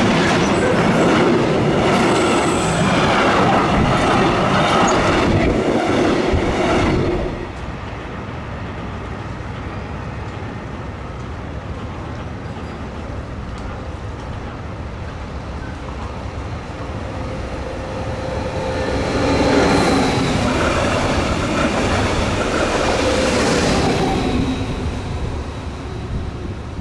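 Freight wagons of a container train rolling past on the rails, clattering steadily and breaking off about seven seconds in. After a quieter stretch, a Stadler Flirt electric multiple unit passes, its sound swelling and fading with a thin high tone.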